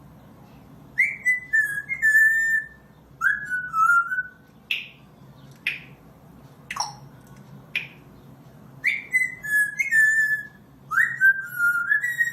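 A parrot whistling: four runs of short sliding whistles, most of them falling in pitch, with single sharp chirps in the gaps between the runs.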